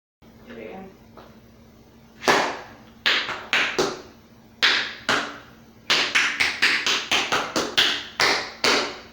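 Metal taps on tap shoes striking the floor. A few separate taps come first, then a quicker, even run of about a dozen sharp taps in the second half.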